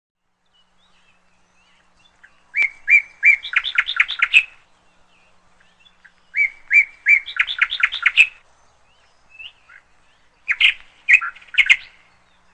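A songbird singing three short phrases a few seconds apart. Each phrase opens with a few spaced notes and runs into a quicker series of notes.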